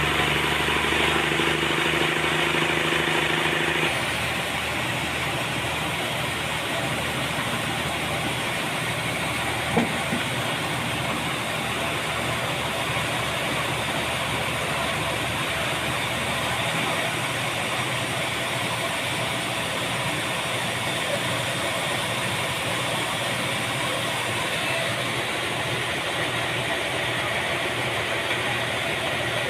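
Sawmill engine running steadily, with a louder, higher-pitched note for about the first four seconds that then drops away as the running settles. A single sharp knock about ten seconds in.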